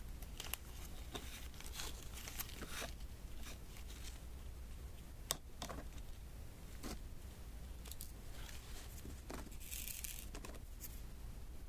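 Diamond painting: small resin drills being tapped and pressed one by one onto the sticky adhesive canvas, with light sticky peeling and tapping sounds at irregular intervals.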